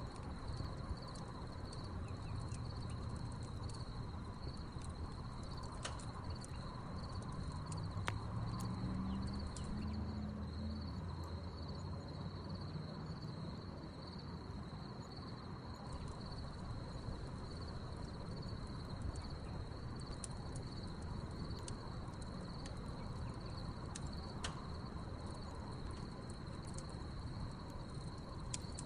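Crickets chirping in a steady high trill, with occasional sharp pops and crackles from a burning wood fire.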